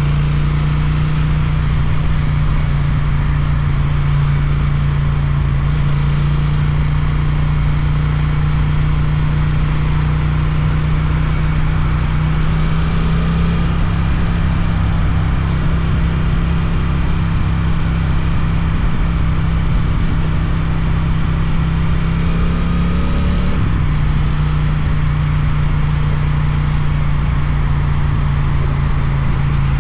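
Suzuki twin-cylinder motorcycle engine with an Akrapovič exhaust, running under way at steady revs. The engine note climbs slowly as the bike accelerates, then drops suddenly about two-thirds of the way through, as at a gear change or a roll-off of the throttle, and settles again, with wind and road noise underneath.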